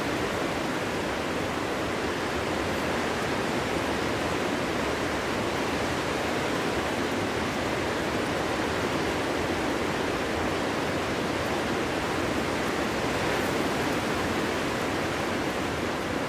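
Wind blowing steadily in a forest, an even rush with no gusts, whistles or howls.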